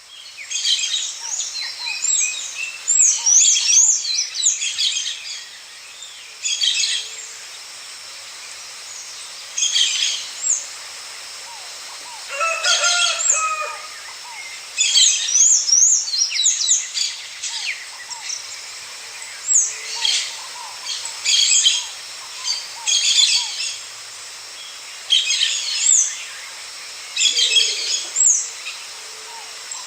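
Songbirds singing: bursts of high, quickly rising and falling chirps and trills every second or two, with a lower call about halfway through.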